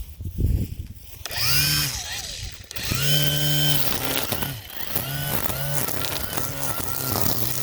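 String trimmer (weed whacker) starting up and being revved: a high motor whine that rises about a second in, holds briefly, then comes in short repeated throttle bursts about twice a second.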